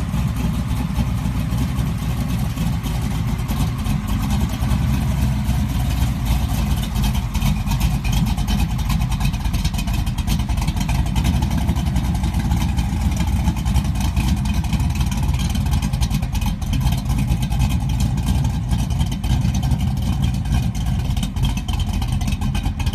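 Old pickup truck's engine running steadily: a low, even exhaust drone under a constant hiss.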